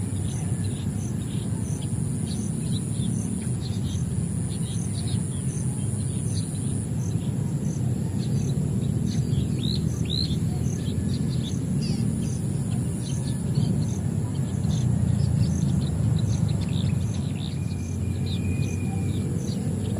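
Many small birds chirping, with short calls scattered throughout and a brief rising whistle about ten seconds in. A steady high whine and a regular high tick about twice a second run under them, over a constant low rumble that is the loudest part of the sound.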